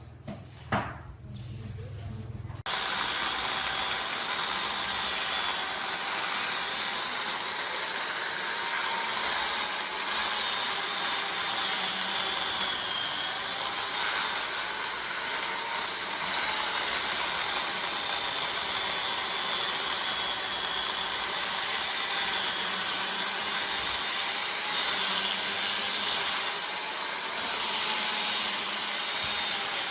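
A woodworking power tool's motor comes in abruptly about three seconds in and runs steadily, its pitch wavering slightly as it works.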